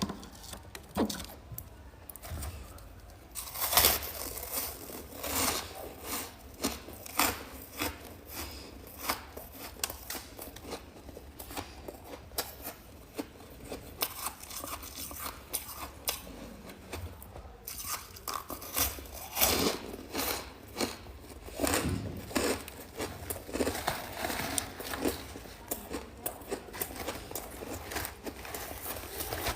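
Freezer frost chunks being bitten and chewed, a fast irregular run of crisp crunches with a few louder bites.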